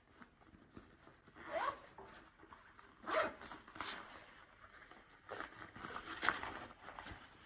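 Zip on a travel backpack's compartment being pulled in several short strokes.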